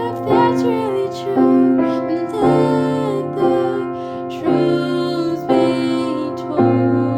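Piano playing slow sustained chords, a new chord struck about once a second.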